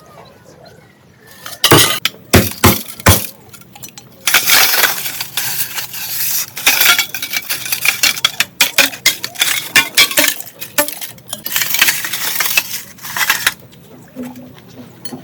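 Glass light bulbs knocked together four times, sharp and loud, then a long stretch of dense glass clinking and crunching that stops about 13 seconds in.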